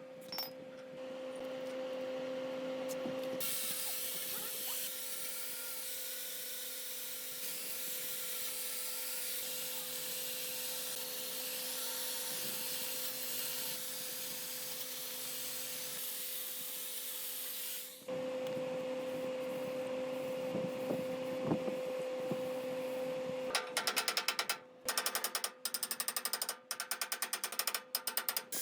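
Electric power tool running with a steady whine and a long hissy stretch, then cut in and out in short bursts near the end.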